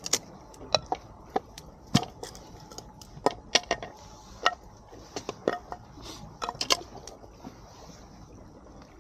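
Wood campfire crackling: irregular sharp pops and snaps of burning firewood, several loud ones in quick clusters, thinning out after about seven seconds.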